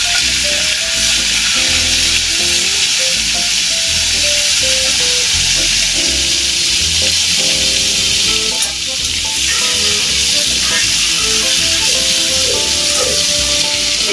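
Hilsa head frying in hot oil in a steel wok, a steady loud sizzle. Background music with a simple melody plays underneath.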